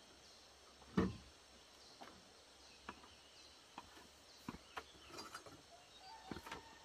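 Scattered light knocks and clicks, with one louder thump about a second in.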